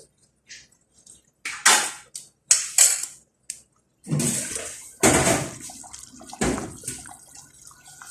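Water splashing: a few short splashes, then a longer run of pouring and sloshing water with two strong surges, settling to a lighter trickle near the end.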